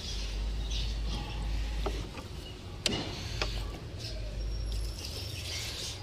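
Birds chirping in the background over a low steady rumble, with one sharp click about halfway through.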